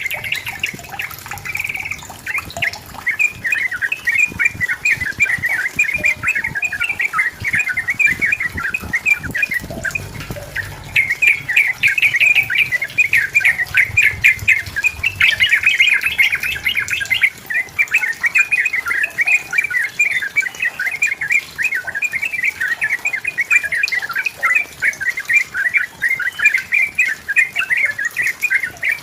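Yellow-vented bulbul singing vigorously: a fast, continuous run of chattering, bubbling notes, with a short lull about ten seconds in.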